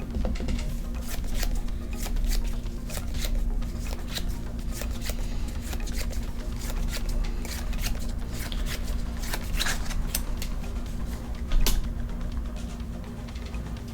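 Trading cards being shuffled and handled: a rapid run of crisp flicks and clicks, with one sharper snap near the end, over quiet background music.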